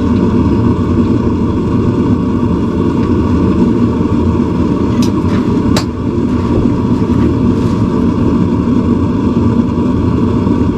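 Forge running, a loud steady rushing noise, with two sharp metallic clicks about five and six seconds in.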